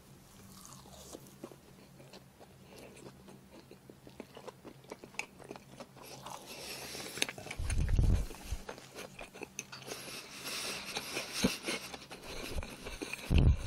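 A person chewing a mouthful of pan-fried sea-worm pancake close to the microphone, with many small mouth clicks that grow denser and louder as it goes on. A single low thump comes about eight seconds in.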